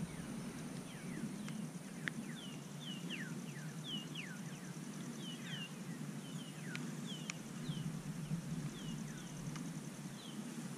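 Wild birds calling: many short whistled notes, each sliding down in pitch, about two a second, over a steady low background rumble.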